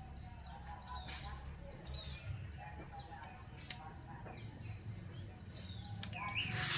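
Scattered short bird chirps over a low steady hum, with a few light clicks. Near the end comes a brief, louder rushing whoosh.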